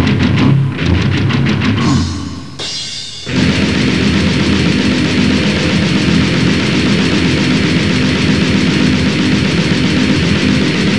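Grindcore recording: distorted guitars and fast drums played as choppy, rhythmic riffing. The music drops away briefly about two seconds in, then comes back about three seconds in as a dense, unbroken wall of distorted noise.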